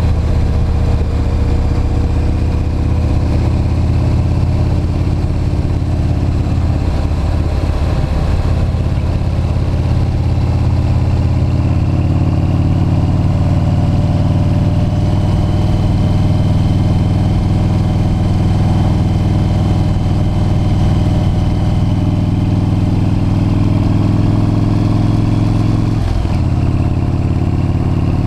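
V-twin motorcycle engine running steadily at road speed. The engine note drifts slightly in pitch and breaks briefly near the end.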